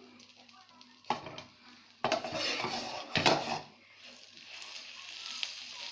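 Butter and ghee melting in a hot frying pan, with a utensil knocking and scraping against the pan in the middle; a steady sizzle builds near the end.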